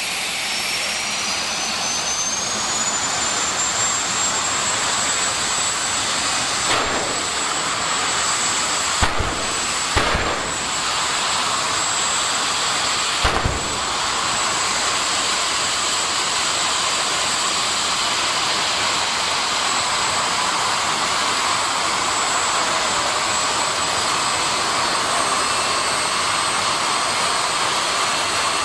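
Jet engine of a jet drag-racing vehicle running with a steady roar and a high turbine whine. The whine climbs in pitch over the first couple of seconds, then holds steady. A few sharp thumps come between about seven and fourteen seconds in.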